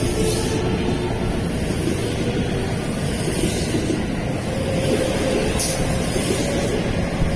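JR West electric multiple-unit Special Rapid train running through the station: a loud, steady rumble of wheels on rail with a faint humming tone.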